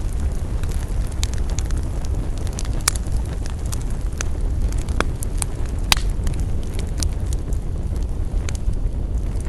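Wood fire burning outdoors: a steady low rumble and hiss of flames with irregular sharp crackles and pops from the burning wood, two louder pops about three and six seconds in.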